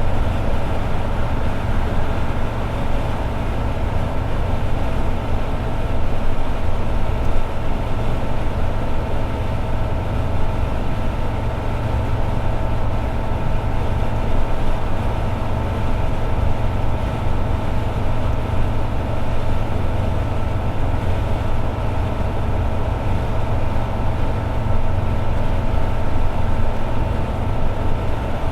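Toyota AE86 Sprinter Trueno's four-cylinder engine and road noise at steady highway cruising speed: a constant engine drone over a heavy low rumble, its pitch unchanging.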